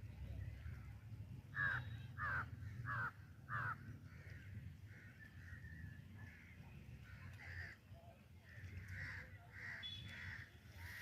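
A crow cawing four times in quick succession about a second and a half in, then fainter, repeated caws, over a low steady rumble.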